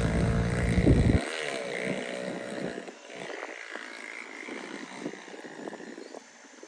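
A vehicle engine runs with a low hum and a short rise and fall in pitch, then cuts off abruptly about a second in. Quieter scattered clicks and rustling follow.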